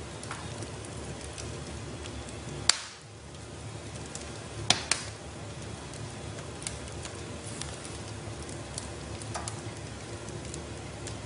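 Wood fire burning in a fireplace: a steady soft hiss and crackle, with two sharp pops of the burning logs, about three seconds in and again about five seconds in.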